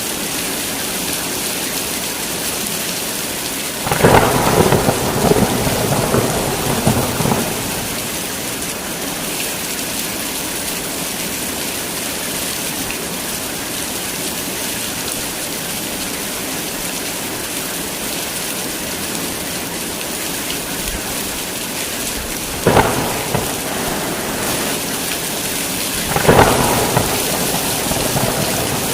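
Steady heavy rain with thunder. Thunder breaks out about four seconds in and rolls on for a few seconds, then cracks twice more near the end.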